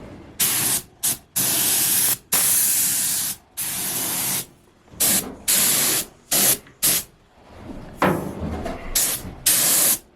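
Paint spray gun laying etch primer onto a boat's hull: a hiss that starts and stops abruptly about a dozen times, in passes of a fraction of a second to about a second.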